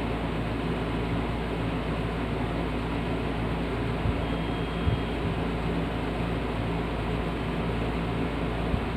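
An electric fan or small motor running steadily: a constant low hum under an even rushing hiss, with a couple of faint ticks.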